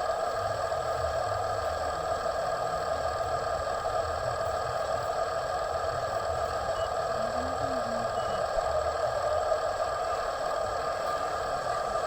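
Steady whir of a toy remote-control truck's small electric motor and plastic gears running, with light rattling and scraping.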